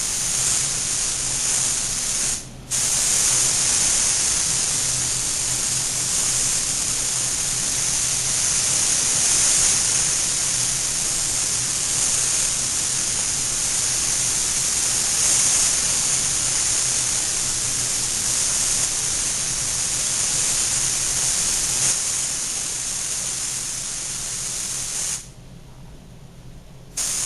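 Air spray gun hissing as it lays a coat of ArmorCoat on a car panel, in long steady passes. The trigger is released briefly about two seconds in and again for about two seconds near the end.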